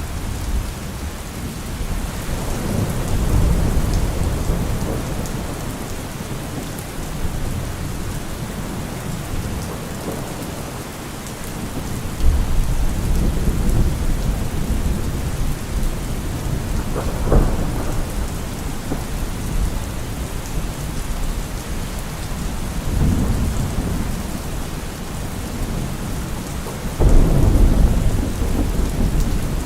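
Heavy rain falling steadily on a car roof, a continuous hiss. Thunder rumbles through it several times: a sharper crack about halfway through, and the loudest low roll near the end.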